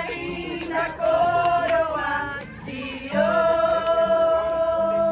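A small group of people singing a Portuguese-language Christian hymn together, holding long notes: one about a second in, and a longer one from about three seconds in.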